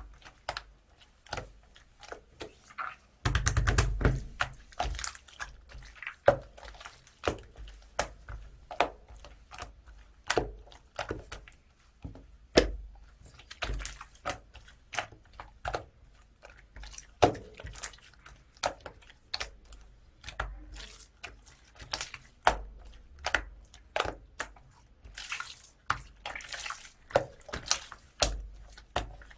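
Clay-mixed slime being played with by hand, making wet, sticky clicks and pops at an irregular pace. A rapid run of crackles comes about three seconds in.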